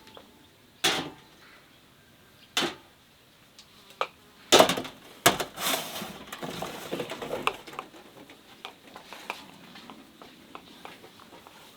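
Kitchenware being handled: four sharp knocks a second or two apart, the fourth the loudest, then a few seconds of clattering and rattling that thin out into light ticks.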